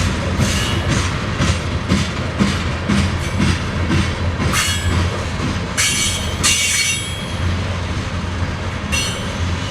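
Loaded coal train's freight cars rolling slowly past. There is a steady low hum of wheels on rail, clicks over the rail joints about twice a second, and short high-pitched wheel squeals several times, loudest about two-thirds of the way through.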